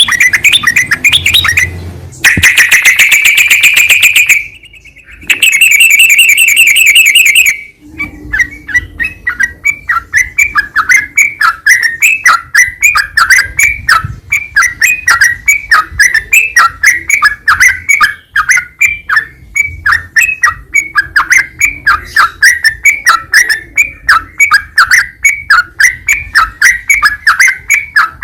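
Yellow-vented bulbul (trucukan) song: a short warbled phrase, then two sustained buzzy trills separated by a brief pause, then a long, even run of rapid short chirps, several a second.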